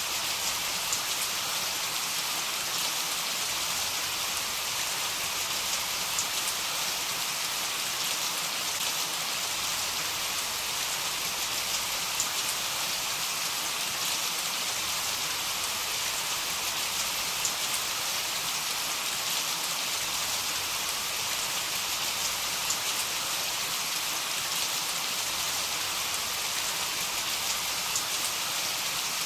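Heavy rain falling steadily: an even hiss with scattered sharper ticks of individual drops, and no thunder in this stretch.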